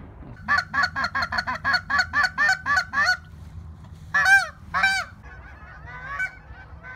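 Geese honking: a quick run of about ten honks, then two louder, longer honks about four seconds in, and fainter honks after.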